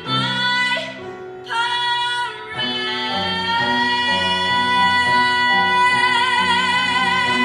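A teenage girl singing a Broadway show tune solo over instrumental accompaniment. After a few short phrases she holds one long final note with vibrato for about five seconds.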